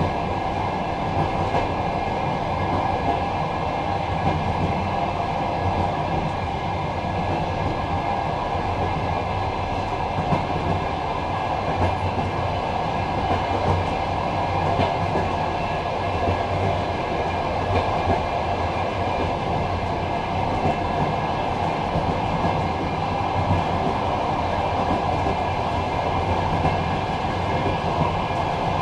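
Passenger train running on the rails, heard from inside its last carriage: a continuous rumble of wheels on track with a steady hum, and a few small knocks now and then.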